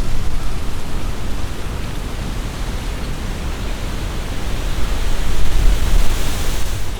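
Strong wind gusting through trees, leaves rustling, over a deep rumble of wind buffeting the microphone. A gust swells about five seconds in, the leaf rustle rising with it, then eases just before the end.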